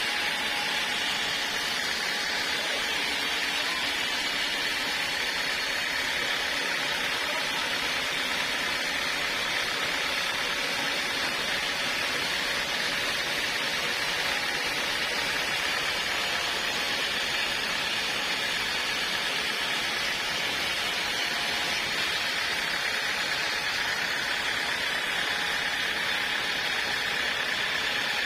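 Sawmill running steadily: a continuous, even machine whir and hiss with no breaks or changes.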